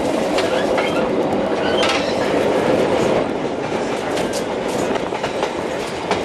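Narrow-gauge (750 mm) train running along the line: a steady rumble of wheels on rail with scattered sharp clicks as the wheels pass over rail joints.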